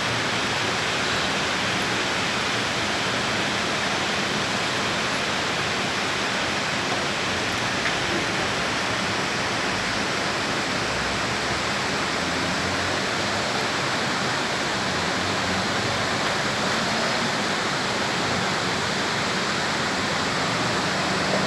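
Rain pouring steadily during a storm, an even hiss that does not let up.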